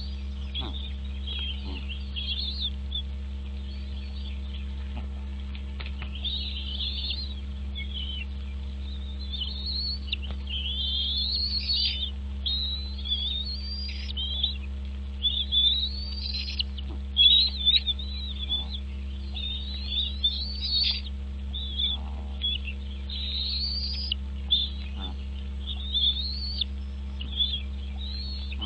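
Birds chirping: a continuous string of quick, high chirps and short rising and falling calls, over a steady low hum.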